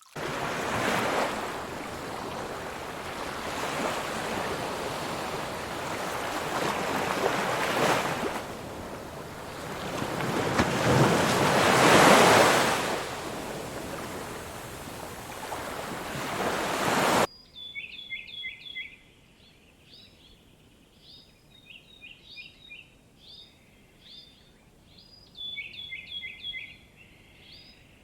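Surf washing in, a rushing noise that swells and eases, loudest a little past the middle, then cut off abruptly. After the cut, a small bird chirps in quick runs of short high notes.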